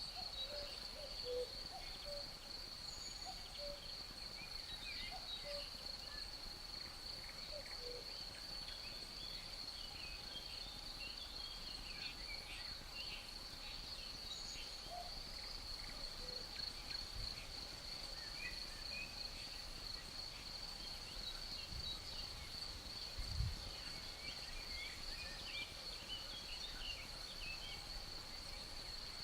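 Insects trilling on one steady high note, with many short bird chirps scattered over it. A brief low thump comes about two-thirds of the way through.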